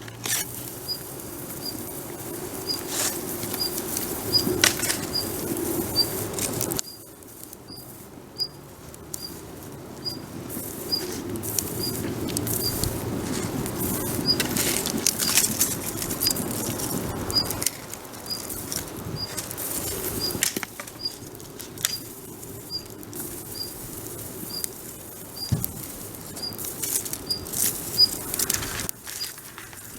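Wood campfire burning, with a steady fluttering hiss and scattered sharp crackles and pops. The fire noise drops abruptly about seven seconds in and then builds again. A faint high pip repeats about twice a second.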